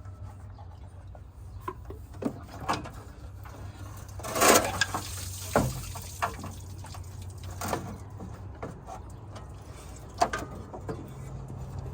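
Hand work on a car engine bay: scattered knocks and clinks of metal tools and parts being handled, over a steady low hum. About four seconds in there is a louder rush lasting about half a second.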